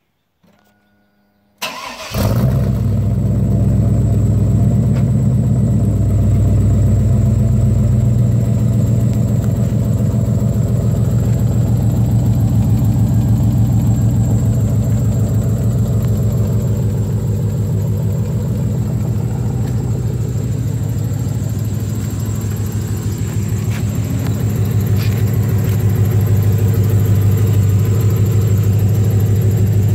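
A 5.7 Vortec V8 with a custom exhaust starts up about two seconds in, then idles steadily with a strong low exhaust note.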